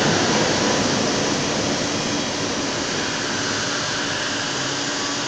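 Bombardier Innovia light-metro trains at a station platform: the steady rushing running noise of a train moving, easing off slowly, with a low steady hum underneath.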